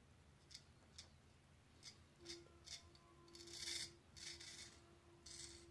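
Razor blade scraping through lathered stubble in a series of faint short strokes, the later ones longer.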